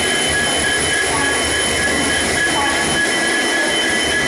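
Train at the station platform: a steady rumbling rail noise with high, unchanging squealing tones, typical of train wheels squealing on the rails.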